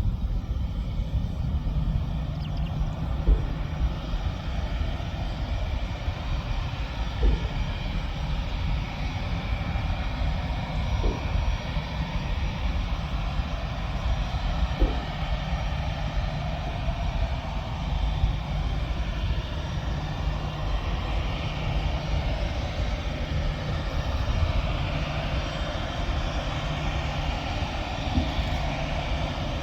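Airliner engines running at an airport, a steady low rumble with a broad roar that grows louder over the second half.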